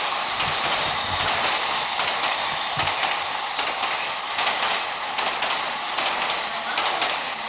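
Electric commuter train noise: a steady rushing hiss with scattered clicks and clatter, plus a few low thumps in the first few seconds.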